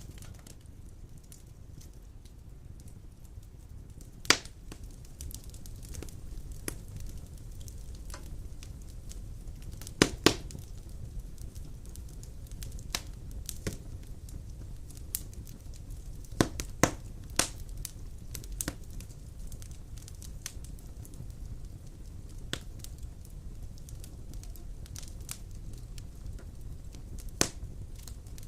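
Wood fire burning in a stone fireplace: a steady low rumble of the flames with scattered sharp crackles and pops, the loudest about 4 s in, a pair around 10 s, a cluster around 16 to 17 s and one near the end.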